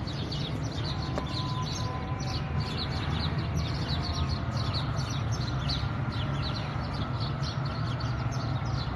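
A dense chorus of many small birds chirping, with short, high, quick-falling chirps overlapping continuously, over a steady low rumble.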